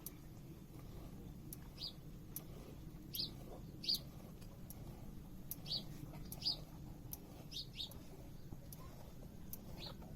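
A small bird chirping: about eight short, high chirps at irregular intervals over a steady low background rumble.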